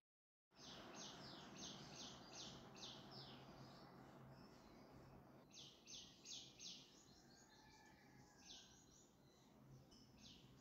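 Faint bird chirping in the background: runs of short, quick high chirps, about four a second, over a low steady hum. The sound cuts in after a brief moment of dead silence at the very start.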